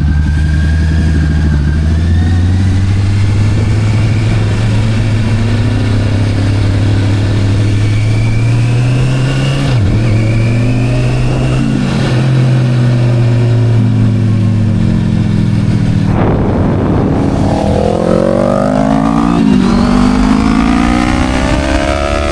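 Sport motorcycle engine and exhaust running at a steady cruise with the revs slowly creeping up and twice dipping briefly and recovering, then revving up hard through the gears near the end.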